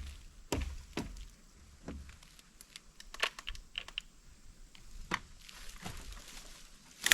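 Scattered light clicks and knocks with no motor running: a cordless electric chainsaw being handled after its loose chain jumped off the bar and drive sprocket.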